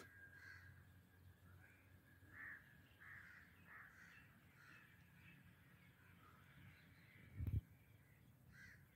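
Faint, repeated calls of birds at irregular intervals, with one short low thump about seven and a half seconds in.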